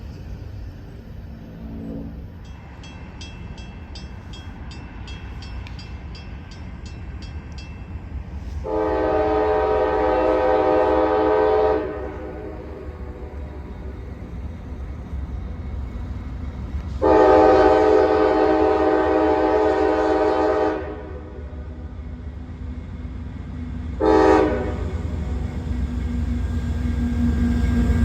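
Freight locomotive's air horn sounding two long blasts and then a short one, the opening of a grade-crossing signal. Underneath is the rumble of the approaching train, which grows louder near the end. Before the horn there is a regular high ticking, about three a second.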